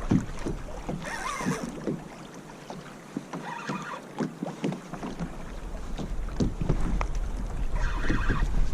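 Irregular small knocks and water sounds around a kayak while a fish is being fought, with a few short raspy bursts; wind rumbles on the microphone from about halfway through.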